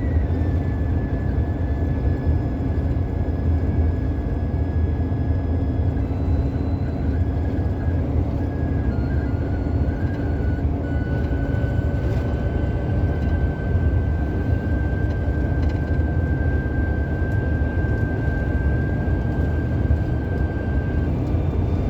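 Police patrol car cruising at highway speed, heard from inside the cabin: a steady low rumble of tyres and engine on the road, with a faint thin high whine held throughout.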